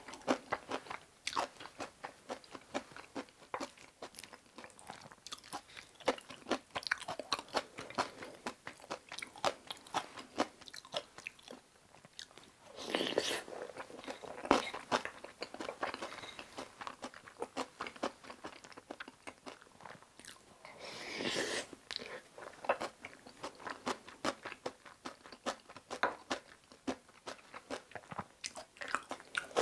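Close-up wet chewing of a mouthful of kimchi cream fried rice: a steady run of irregular small crunches and mouth clicks. Twice, about midway and again about two-thirds through, there is a brief louder noisy swell.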